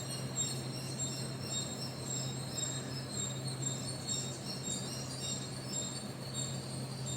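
Early-morning outdoor ambience of repeated short, high-pitched chirps from small wildlife, over a steady low hum.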